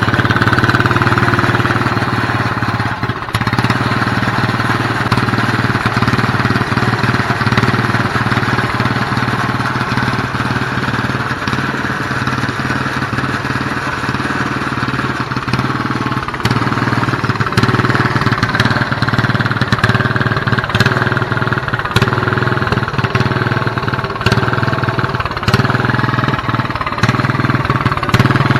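Straight-piped John Deere 212 lawn tractor's single-cylinder engine running loud and steady, with a few brief dips in its note.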